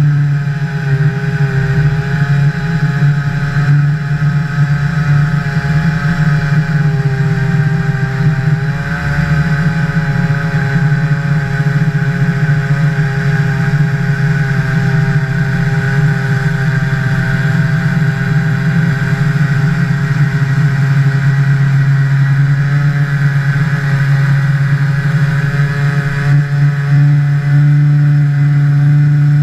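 Two-stroke Jonsered 2149 Turbo chainsaw running at high, steady throttle with small wavers in pitch, as in a long ripping cut through a log on a chainsaw mill.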